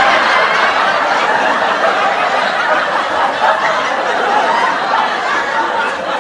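A group of people laughing and chuckling together, a steady unbroken wash of overlapping laughter.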